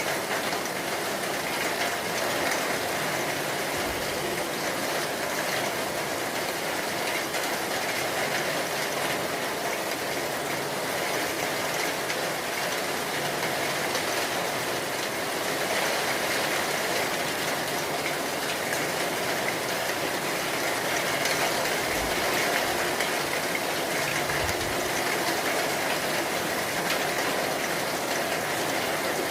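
Steady rain, an even hiss with no let-up. A few brief low thumps come through about 4 seconds in and twice more near the end.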